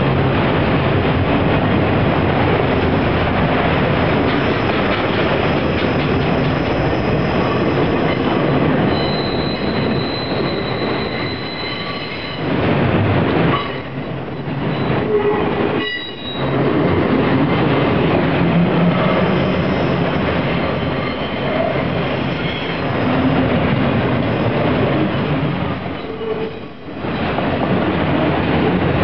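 Freight train of autorack cars rolling past at speed: a loud, steady rumble and clatter of wheels on rail. A thin high wheel squeal holds for a few seconds about nine seconds in, and the noise briefly dips twice.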